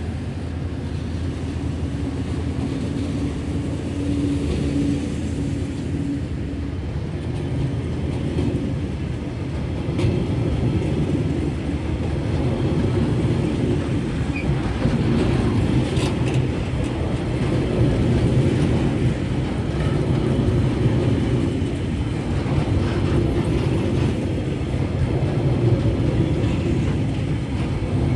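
Tasrail freight train hauled by diesel locomotives running by: a steady engine drone and low rolling rumble that grows louder about ten seconds in.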